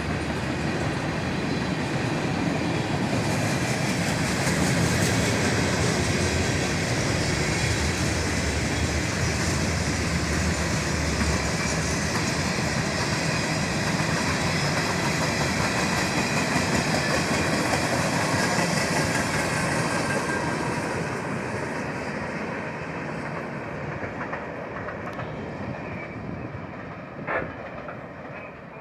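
A train's cars rolling past on the rails, a steady rumble that fades away over the last several seconds. One short sharp sound comes near the end.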